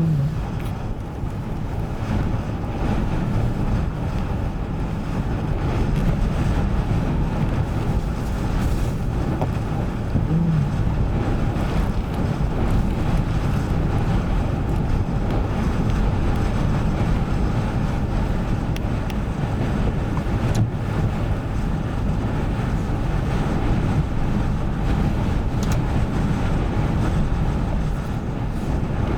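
Ocean waves surging and breaking, with heavy wind buffeting the microphone.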